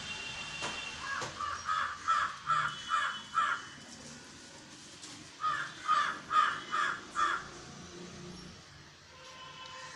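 A bird calling in two runs of about six quick, evenly spaced calls: one starting about a second in and another starting about five and a half seconds in.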